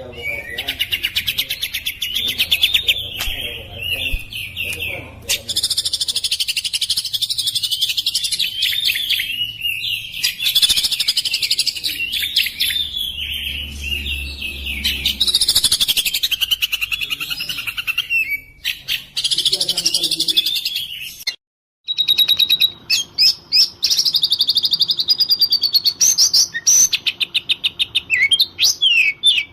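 Oriental magpie-robin (kacer) singing continuously, a fast stream of varied whistled and chattering phrases. About two-thirds of the way through the sound breaks off for a moment, then resumes as a quick run of rapid, rattling repeated notes.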